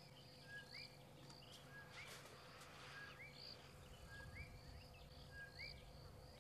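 Quiet bush ambience: a bird repeats a short call about once a second, a flat note that hooks upward followed by a higher note, over a faint steady low hum. A brief rustle comes about two seconds in.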